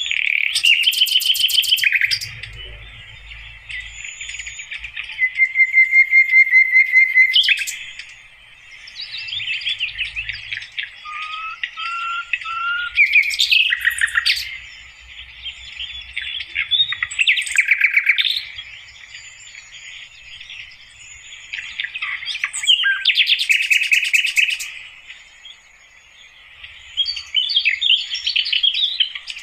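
Sikatan londo flycatcher singing: bouts of varied, rapid warbling phrases mixed with clear whistled notes and fast buzzy trills, with short pauses between the bouts.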